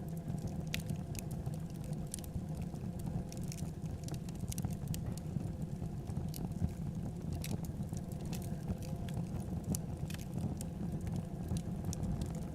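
Wood fire burning in a fireplace: a steady low rumble of flames with scattered, irregular small crackles and pops.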